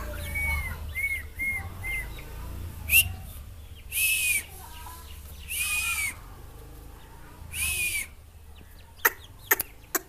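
Birds calling: a few short chirps, then harsh calls of about half a second each, repeating every second or two, with three sharp clicks near the end.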